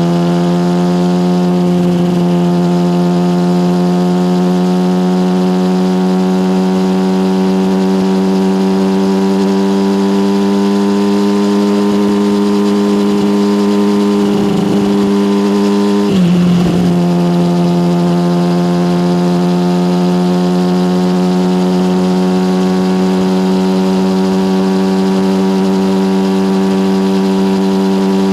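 Yamaha motorcycle engine through an SC Project aftermarket exhaust, running at a steady note that rises slowly, with one brief dip in pitch about sixteen seconds in.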